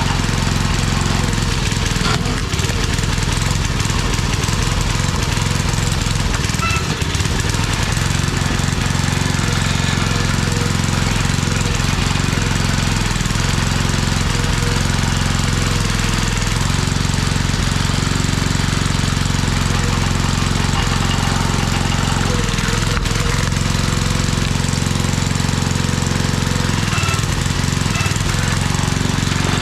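Old 5 hp Briggs & Stratton single-cylinder engine on a homemade log splitter running steadily, with its air cleaner off.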